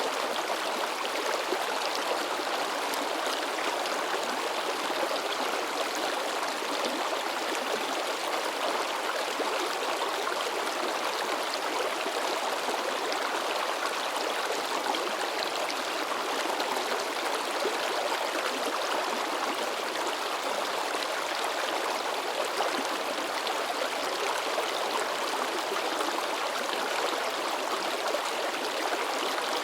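A shallow river babbling and splashing: a steady, even rush of water with little low rumble.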